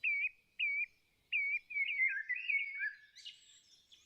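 Small birds chirping: three separate chirps in the first second and a half, then a quicker run of overlapping chirps, with a few higher notes near the end.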